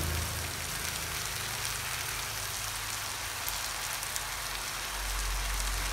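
Sliced onions with ground ginger, green chilli and garlic paste sizzling in hot oil in a pan, a steady hiss.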